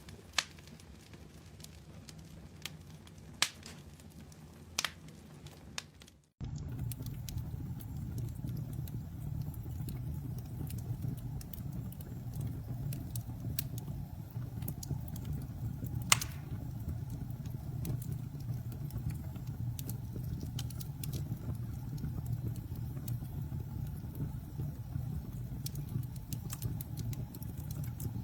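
Wood campfire crackling, with a few sharp pops in the first seconds. About six seconds in it cuts abruptly to a louder, steady low rumble under dense crackling, with one loud pop partway through.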